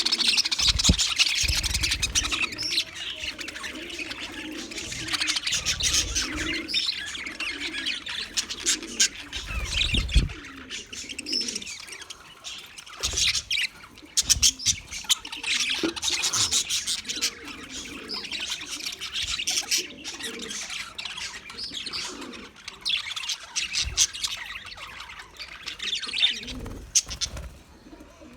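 English budgerigar chattering and warbling in a continuous stream of quick chirps and twitters. A few low thumps come in along the way.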